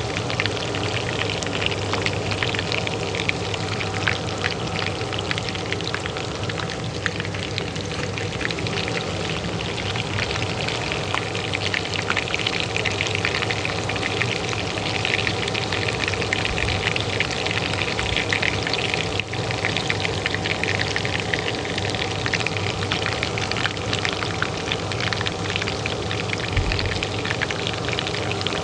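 Hot oil frying in a pan, a dense steady crackle of many small pops and sizzles, over the steady hum of a kitchen range hood fan.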